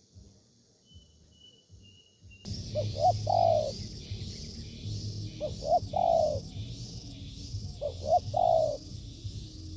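Spotted dove cooing, starting suddenly about two and a half seconds in. Each phrase is two short notes and then a longer note, and it repeats about every two and a half seconds, three phrases in all. A high rhythmic chirring pulses about twice a second behind it.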